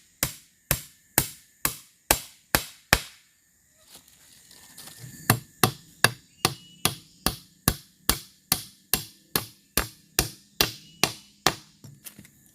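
Hand tool striking bamboo in a steady rhythm, about two and a half sharp strikes a second. It pauses about three seconds in and starts again a couple of seconds later.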